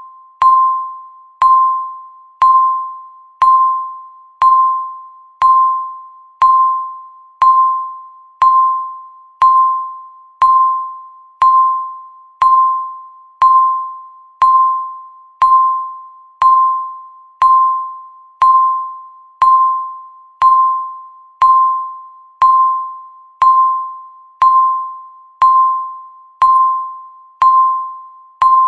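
Electronic countdown-timer beep sounding once a second, a short pitched tone that starts sharply and fades away before the next, marking each second as the timer counts down.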